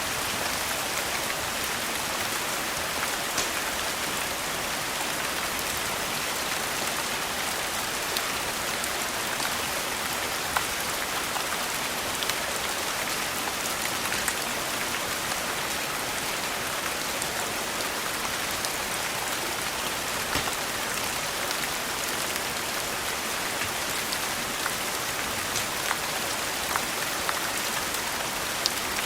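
Steady rain as an even hiss, with a few sharp crackles of a wood fire scattered irregularly through it.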